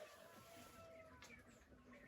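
Near silence with faint, distant bird calls: a few short held notes.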